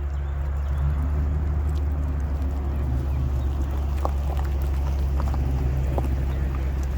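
A vehicle engine running steadily with a deep, low rumble.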